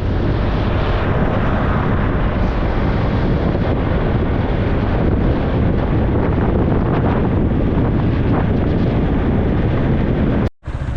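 Steady wind rushing over the microphone of a moving motorbike, mixed with the bike's running noise. The sound cuts out for an instant near the end.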